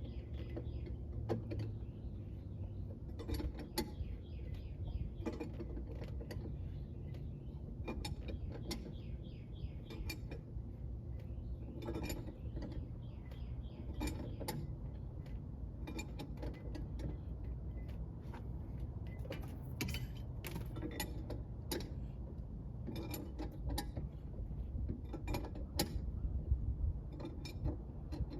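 A wrench backing off the brake adjustment on a truck's air-brake drum brake, giving an irregular run of metallic clicks and creaks, over a steady low hum.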